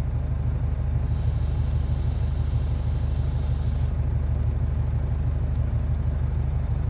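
Truck diesel engine running steadily with a low, even drone. A soft hiss comes in about a second in and stops about four seconds in.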